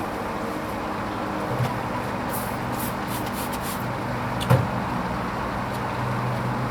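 Hoover Vision HVP16 washing machine running a Silks 30 cycle: a steady motor hum as the drum turns, with a single sharp knock about four and a half seconds in.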